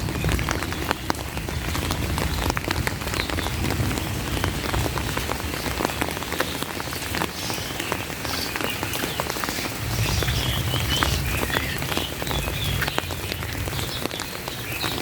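Steady rain falling, with many distinct drop hits over a continuous hiss. Faint high chirping calls join in the latter half.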